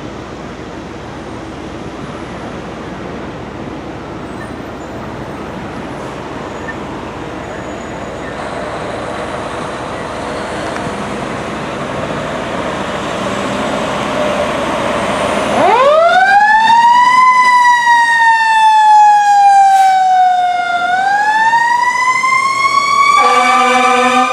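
Road noise grows steadily, then about two-thirds in a fire ladder truck's siren starts abruptly, wailing up fast, sliding slowly down and rising again. Near the end the truck's air horns come in, a loud steady chord of several tones.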